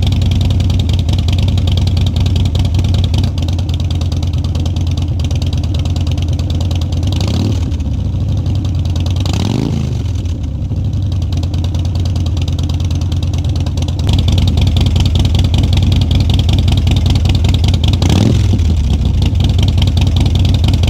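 Harley-Davidson Dyna Street Bob's Twin Cam 103 V-twin idling through Vance and Hines Twin Slash slip-on mufflers, blipped three times: a short rev about 7 and 9 seconds in and again near the end. The idle gets louder about two-thirds of the way through.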